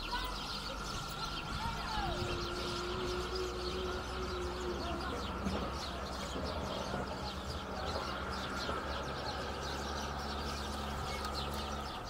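Small birds chirping rapidly and continuously over a steady low hum.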